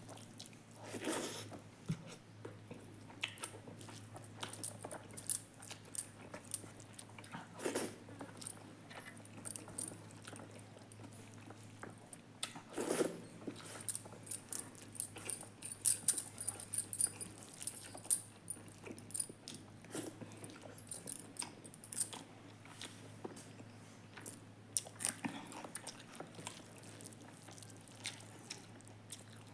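Close-up eating sounds: a person biting and chewing food, with many small clicks and mouth smacks and a few louder mouthfuls.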